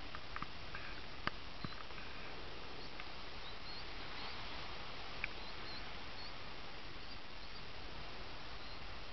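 Birds calling on a shore: short, thin, squeaky chirps, roughly one a second, over a steady hiss. A few sharp clicks cut through, the loudest just after the first second and again about five seconds in.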